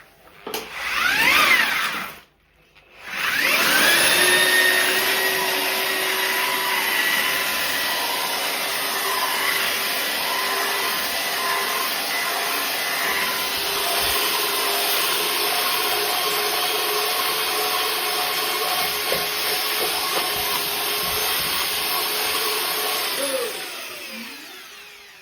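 An electric power tool's motor spins up briefly and stops, then starts again and runs at a steady high whine for about twenty seconds. Near the end it winds down, falling in pitch.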